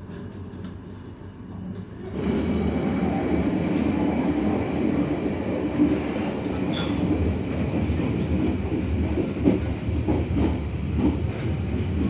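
KA Mataram passenger coaches running along the track, heard from the gangway between two coaches: a loud, steady rumble of wheels on rails with irregular clatter and knocks. It comes in suddenly about two seconds in, after a quieter stretch.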